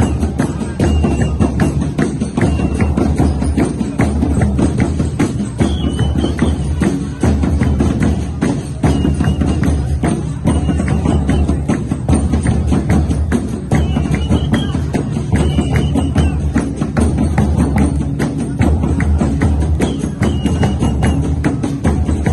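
Loud festival percussion music: a steady pounding drumbeat under fast rattling, tambourine-like strokes, with short high notes recurring every second or two.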